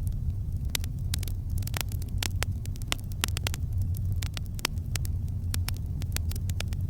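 Campfire burning: a steady low rumble with frequent, irregular sharp crackles and pops of burning wood.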